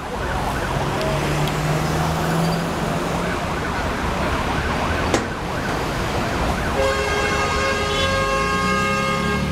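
Road traffic with an emergency vehicle siren sounding, and one sharp crack about five seconds in. In the last three seconds a loud, steady multi-note horn or siren tone is held.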